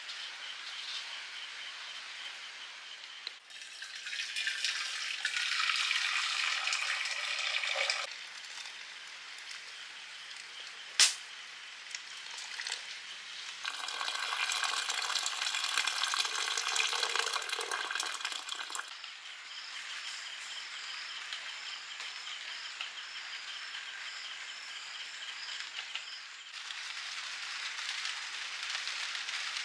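Rain falling, a steady hiss that gets louder in two stretches and then eases, with a single sharp click about eleven seconds in.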